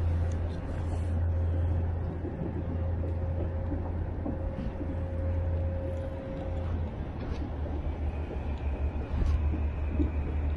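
A distant engine's low, steady drone. A faint higher whine fades out about two-thirds of the way through.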